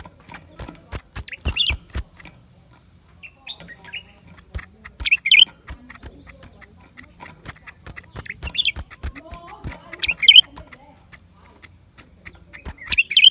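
Blue-winged leafbird calling in short, quavering, high phrases, five of them a few seconds apart, with many sharp clicks in between.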